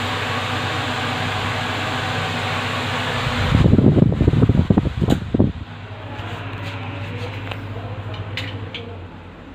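Ceiling fan running with a steady whoosh of air and a low hum. About three and a half seconds in, a couple of seconds of loud, irregular low rumbling break in, and the hum then carries on more quietly.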